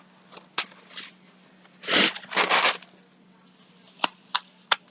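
Plastic packaging crinkling as yarn is handled: two short rustles about two seconds in, then a few sharp clicks near the end, over a faint steady hum.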